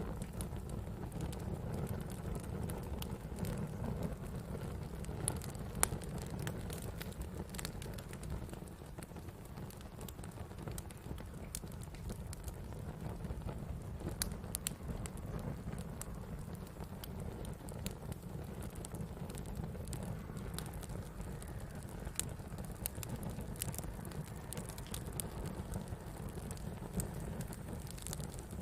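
Campfire burning wood: a steady low rumble of flames with scattered sharp crackles and pops, one louder pop about six seconds in.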